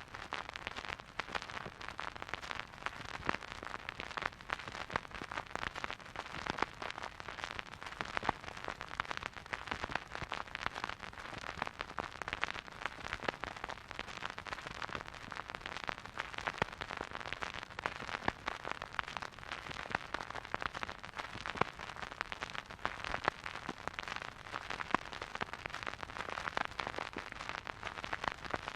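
Vinyl record crackle from a silent groove: a dense, continuous stream of fine pops and clicks over a soft surface hiss, with no music.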